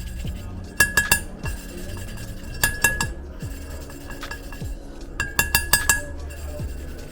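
Engine valve being hand-lapped into its seat in a cast cylinder head with coarse grinding paste: three bursts of quick, ringing metal-on-metal clinks, three or four taps each, as the valve is worked against its seat.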